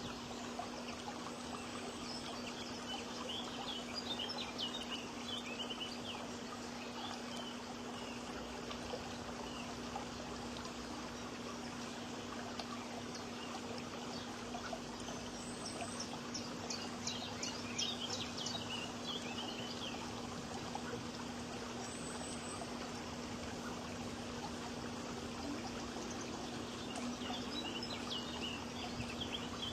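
Songbirds chirping in three bursts, a few seconds in, mid-way and near the end, over a steady rush of running water and a constant low hum.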